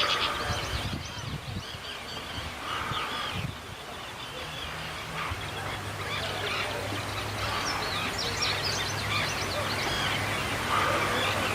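A flock of waterbirds calling, many short high calls overlapping in bursts, with a low steady hum underneath from about halfway through.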